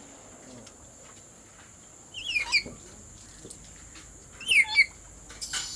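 Black-capped lory giving two short, harsh squawks about two seconds apart, each a quick run of falling notes, with a brief noisy rasp near the end.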